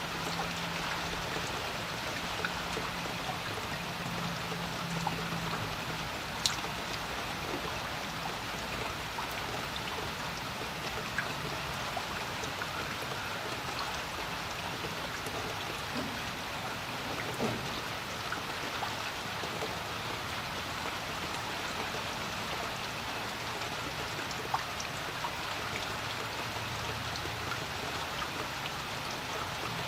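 Steady rain falling on a creek, a soft even hiss with scattered single drops ticking, the sharpest about six seconds in and again near the end. A faint low hum sounds during the first few seconds and returns near the end.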